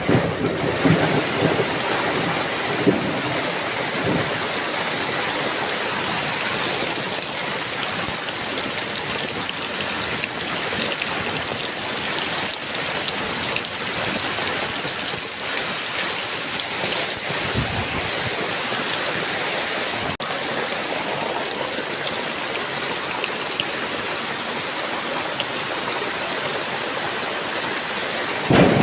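Steady heavy rain, with a rumble of thunder dying away about a second in and a fainter low rumble around the middle.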